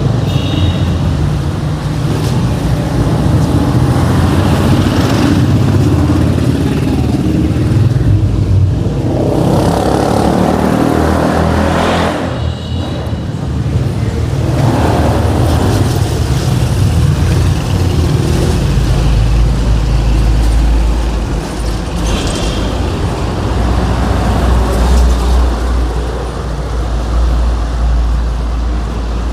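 City street traffic: motor vehicles running and passing close by, with a louder vehicle going past about ten seconds in and a deep engine drone, like a bus or truck idling, from about two-thirds of the way through. A few brief high-pitched tones cut through three times.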